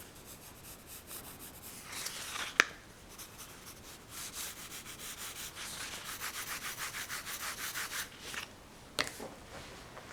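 Pencil sketching on paper: light scratchy strokes, then about four seconds of fast back-and-forth shading strokes, roughly five a second. A sharp tick comes a couple of seconds in and another near the end.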